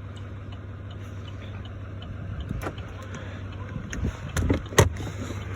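Duramax 6.6-litre V8 turbo-diesel of a 2019 Chevrolet Silverado 3500 HD idling steadily, heard from inside the cab, with the light ticking of the hazard flasher and a few sharp clicks in the second half.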